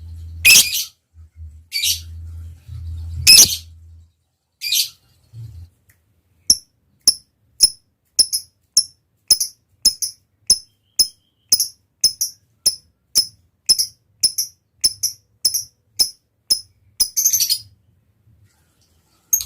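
Lovebird calling: a few sharp, high shrieks, then a long, even run of short chirps at about two a second, the repeated ticking 'ngetik' call, ending in a slightly longer burst.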